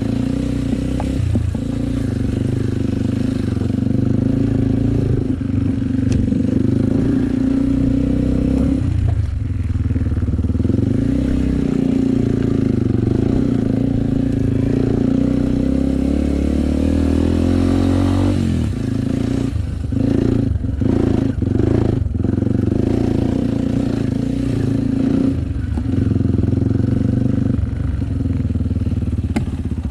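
Enduro motorcycle engine running under load off-road, its pitch rising and falling with the throttle, a long climb in revs that drops off about two-thirds through, followed by a few quick throttle blips.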